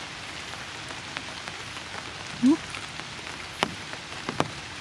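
Steady rain falling, with a few sharp taps close by near the end and a brief rising voice-like sound about halfway through.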